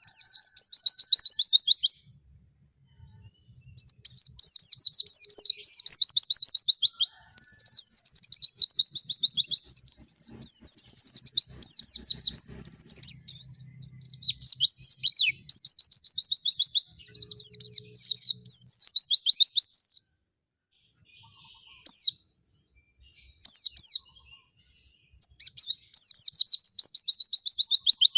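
White-eye (pleci) singing: long runs of rapid, high twittering trills, each lasting several seconds. There is a brief pause near the start, and a stretch of scattered single chirps about three quarters through.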